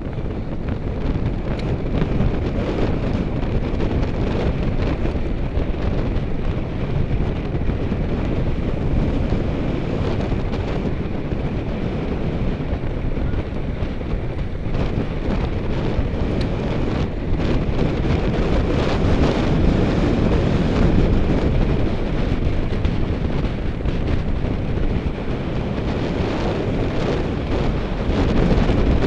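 Wind buffeting the microphone of a camera on a moving bicycle during a group road ride: a steady, loud, low rushing noise that rises a little near the end.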